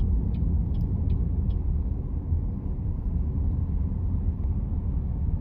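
Steady low road and engine rumble of a car driving, heard inside the cabin. For the first second and a half a turn-signal indicator ticks about two to three times a second, then stops.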